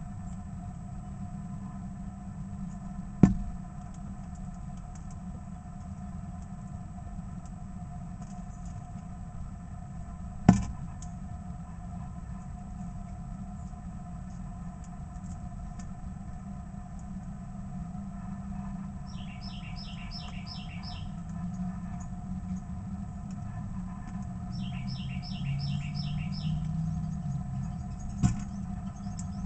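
A songbird sings two short bursts of quick repeated down-slurred notes, about two-thirds of the way through and again a few seconds later. Under it runs a steady low rumble like distant traffic. Two loud sharp knocks come early on.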